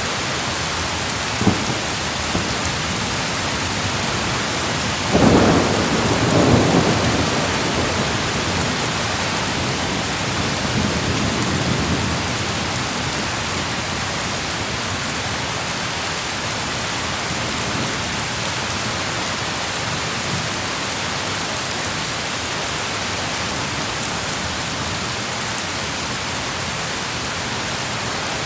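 Thunderstorm: steady rain throughout, a short crack about a second and a half in, then a louder clap of thunder about five seconds in that rolls on in a rumble, fading out around twelve seconds in.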